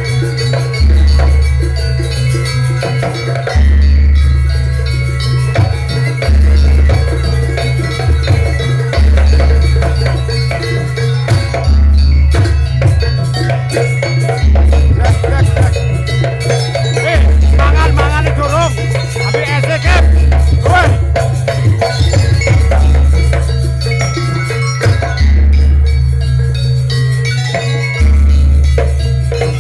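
Loud Jaranan music from a Javanese percussion ensemble: drums and metal percussion over a heavy low beat that repeats every two to three seconds, with a melody weaving above it.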